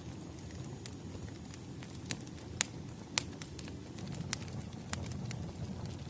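Wood fire crackling: a steady low rumble with scattered sharp pops, the loudest two about two and a half and three seconds in.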